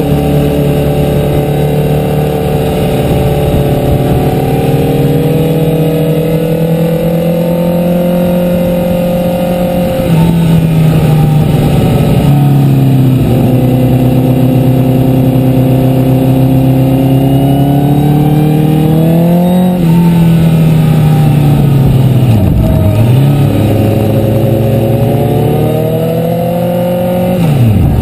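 Sport motorcycle engine heard close up while riding a winding road, over wind rush. The revs drop and climb several times with throttle and gear changes, with a jump to higher revs and louder about ten seconds in.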